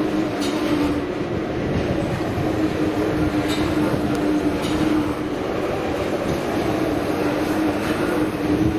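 A train moving through a station: steady rolling noise with a low hum, and a few faint clicks.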